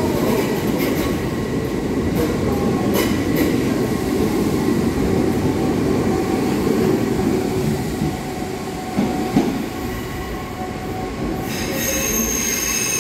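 Merseyrail Class 507 electric multiple unit moving through an underground station platform: a steady rumble of wheels and motors with a few light clicks. A high-pitched wheel squeal starts near the end.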